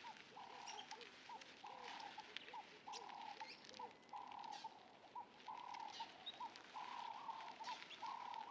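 Faint bird calls: a short call repeated about once a second, with quick chirps in between.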